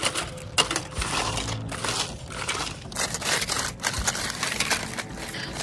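Irregular crunching and crinkling with many small clicks and scrapes, as hands sort through discarded rubbish.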